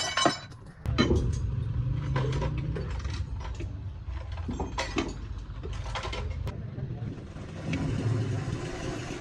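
A vehicle engine rumble comes in suddenly about a second in and runs steadily, with scattered metal clinks and knocks over it.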